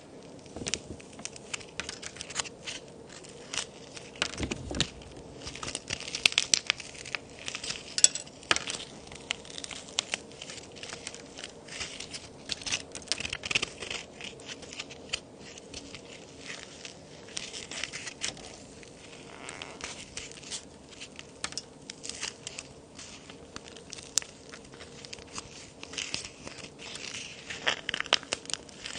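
Dry plaster-and-clay cookies being snapped and crumbled by hand: an irregular run of sharp cracks and crunches, busiest and loudest about six to eight seconds in, with further clusters around thirteen seconds and near the end.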